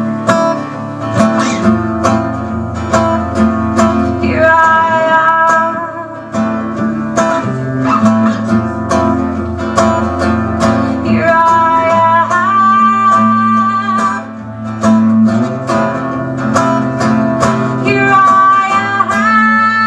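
Acoustic guitar strummed in a steady rhythm under a voice singing long held notes that slide between pitches, three phrases about seven seconds apart.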